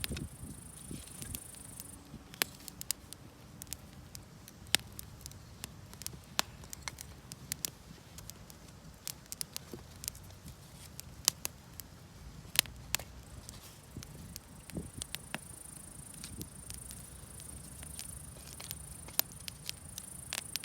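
Wood campfire crackling, with irregular sharp pops scattered throughout, over a low steady rumble. A high, steady insect trill stops about two seconds in and comes back about fifteen seconds in.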